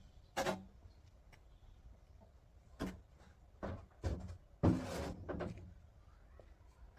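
Irregular knocks and clatters, with a longer scraping rattle about five seconds in.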